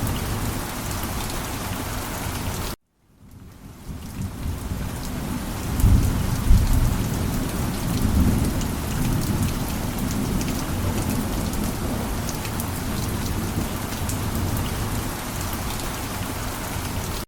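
Heavy rain pouring steadily. About three seconds in it cuts out abruptly and fades back in, with a low rumble of thunder a few seconds later.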